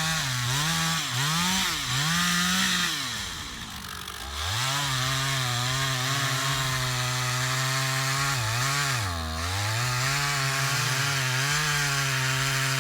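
Chainsaw revving up and down several times, then held at steady high revs, with one brief drop in speed about nine seconds in.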